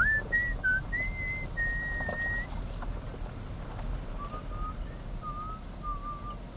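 A person whistling a short tune in clear single notes: an upward slide into a few high notes, then after a short pause several lower notes. A steady low rumble runs underneath.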